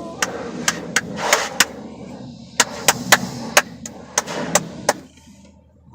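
Soft-cloth brushes of an automatic tunnel car wash slapping against the car, heard from inside the cabin: a dozen or so sharp, irregular slaps over a wash of spraying and churning, easing off about five seconds in.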